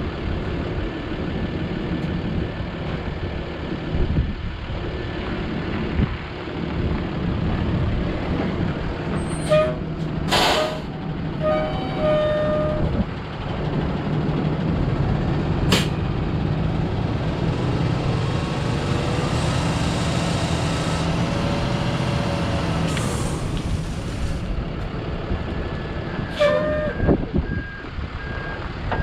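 Diesel engine of a 2013 Ford F750 water truck running steadily, with short pitched blasts about ten seconds in and an on-off reversing beeper starting near the end as the truck backs up.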